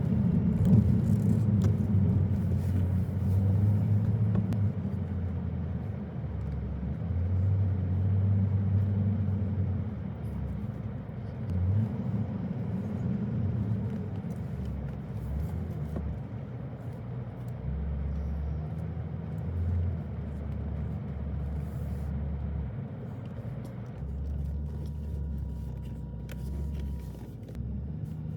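Car driving on a road: a steady low rumble of engine and tyres, louder for the first ten seconds or so and then easing off. A faint thin steady tone sounds for a few seconds near the end.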